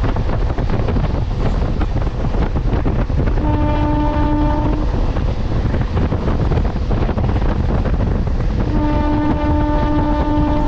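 MEMU electric train running with a steady loud rumble. Its horn sounds twice: a blast of about a second and a half a few seconds in, and a longer blast starting near the end.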